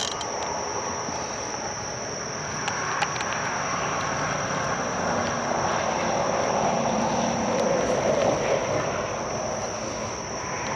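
Night insects, crickets, keep up a steady high trill. Under it a broad rushing noise swells gradually and then fades again near the end.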